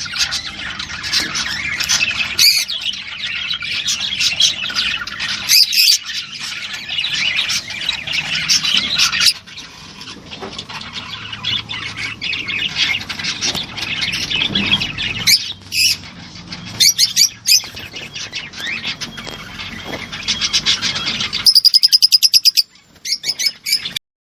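Several birds chirping and squawking together in a dense, overlapping chorus. Near the end comes a loud, rapid, evenly pulsed call, and then the sound cuts off.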